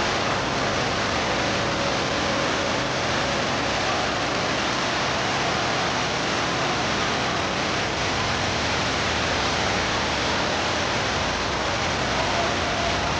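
Steady rush of water falling in the Rain Vortex, a very tall indoor waterfall, at an even level throughout.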